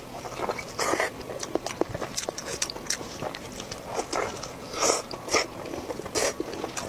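Close-miked eating: crunchy bites and chewing of crisp food, a run of short crackles with louder crunches about a second in and again around four to six seconds in.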